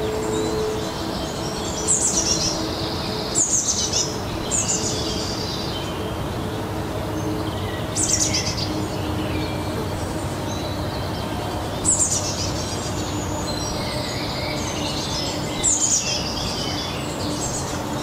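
A songbird singing short, high phrases that fall in pitch, about six of them a few seconds apart, over a steady low background rumble.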